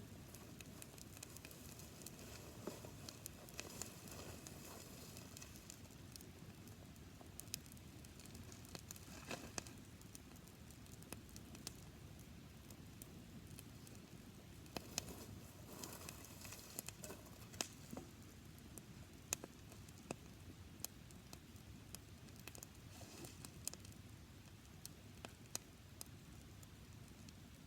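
Campfire of dry grass and twigs crackling, with scattered sharp pops and snaps over a faint hiss.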